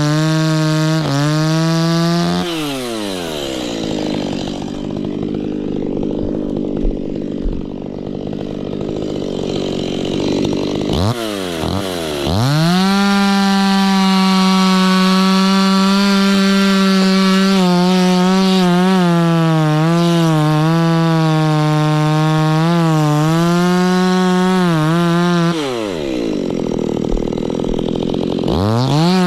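Stihl two-stroke chainsaw cutting kapok wood. It runs at full throttle, drops to idle for several seconds, revs back up about a third of the way in and holds high with small dips in pitch as it bites, then falls back to idle near the end before revving once more.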